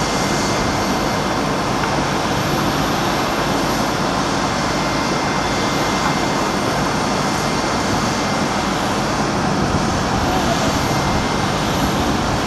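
Jet engines of a KLM Airbus A330-200 running steadily at low power while it pushes back and taxis: an even, unbroken rush with a faint steady whine over it.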